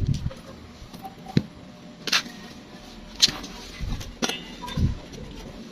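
Scattered metal clicks and knocks, with a couple of duller thumps, from hand work on a motorcycle side stand and its return spring.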